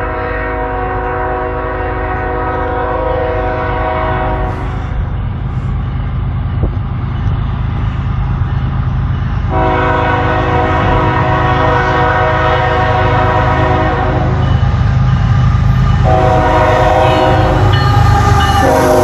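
CN freight locomotive's air horn sounding the grade-crossing signal: a long blast, a second long blast, then a shorter one near the end, over the low diesel rumble of the approaching train, which grows louder.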